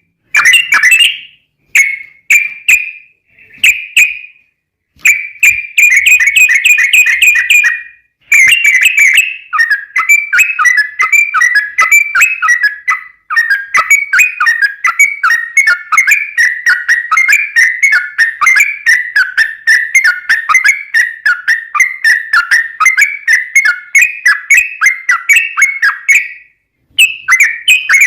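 Yellow-vented bulbul (trucukan) singing loudly in quick, bubbly chirping notes. Short phrases with pauses for the first eight seconds or so, then one long rapid rolling run that lasts most of the rest, breaks briefly near the end and starts again.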